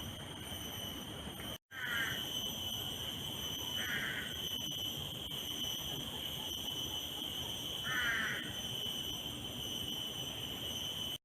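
Three short bird calls a few seconds apart, over a steady high-pitched drone.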